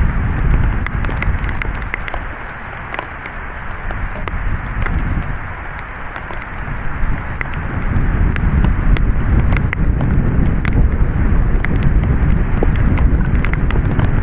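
Heavy thunderstorm rain, with many sharp drop ticks over a dense hiss and a deep rumble of gusting wind. It eases for a few seconds, then builds again from about halfway through.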